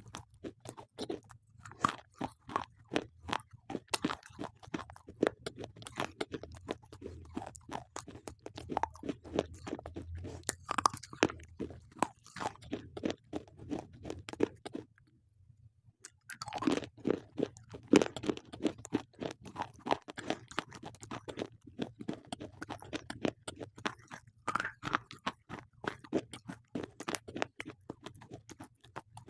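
Slate pencils being bitten and chewed: a dense run of sharp crunches, broken by a pause of about a second and a half just past the middle.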